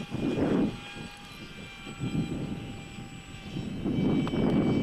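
Steady high whine of an RC model plane's small propeller and motor in flight, with gusts of wind rumbling on the microphone that swell near the start and again near the end.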